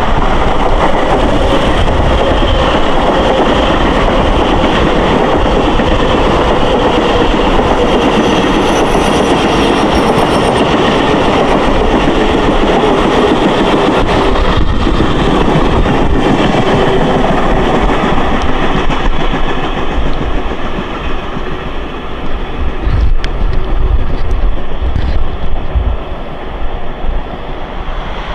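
Twelve-car Budd M-3 electric multiple-unit commuter train running past at speed: a loud, continuous rush of steel wheels on the rails, with a faint whine slowly falling in pitch. The noise eases about two-thirds of the way through, then swells again with a few sharp clacks.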